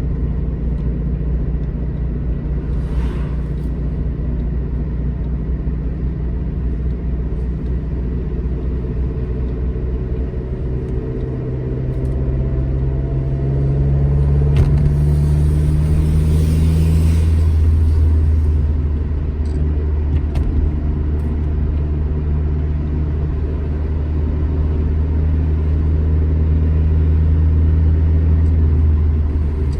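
Classic Alfa Romeo GT Junior's twin-cam four-cylinder engine pulling the car along a road under steady load. About twelve seconds in the revs climb and it grows louder, then the pitch settles back a little and builds again near the end.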